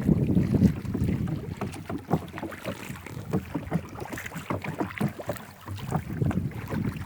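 Wind buffeting the microphone aboard a small rowing boat, strongest in the first second and again near the end. Many small, irregular knocks and splashes of the boat on the water run throughout.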